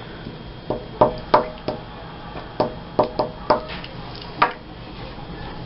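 A series of light, irregular taps and knocks, about nine in all, from paper cutouts and craft materials being handled and pressed down on a tabletop.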